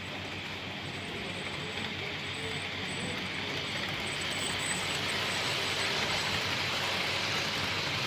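Model train running on the layout's track, a steady rolling hiss that grows gradually louder.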